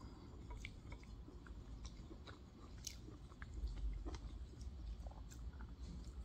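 A person chewing a steamed pork momo dumpling close to the microphone: faint, scattered small mouth clicks over a low hum that grows louder about halfway through.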